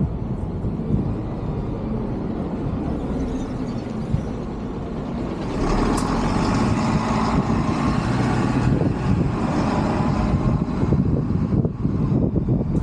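A heavy road vehicle running close by, its motor sound growing louder about halfway through and easing off near the end, with a single sharp click partway through.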